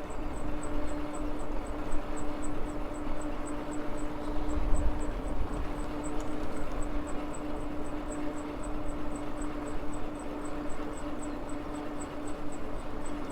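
Maxtron Mule folding e-bike riding along, its electric motor giving a steady whine over rumbling wind and road noise. A light high ticking repeats two or three times a second.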